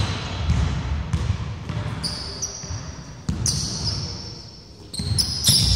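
Basketball bouncing on a wooden gym floor in irregular thuds, with sneakers giving several short high squeaks on the wood.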